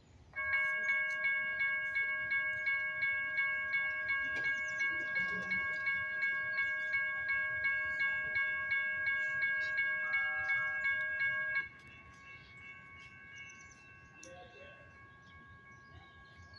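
Railroad crossing warning bell ringing rapidly, about three to four strikes a second, then stopping abruptly about eleven and a half seconds in. A fainter bell keeps ringing after it.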